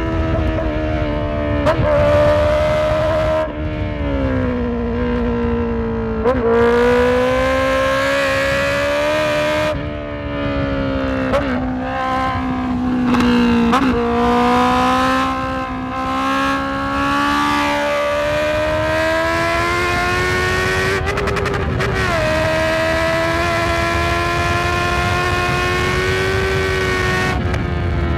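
Honda CB650F's inline-four engine pulling under way, its note climbing and falling with the throttle and jumping abruptly in pitch at each of several gear changes.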